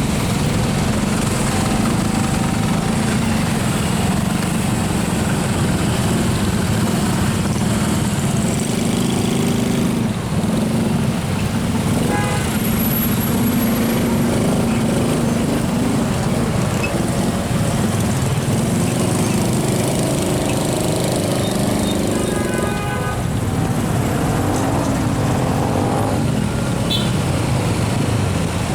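Road traffic in a jam: the engines of many motorcycles and cars running steadily in slow, congested traffic, with a brief pitched sound a little over three-quarters of the way through.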